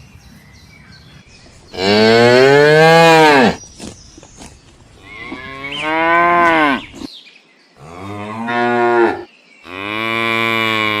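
Cattle mooing: four long, loud moos, each dropping in pitch as it ends. The last is still going at the end.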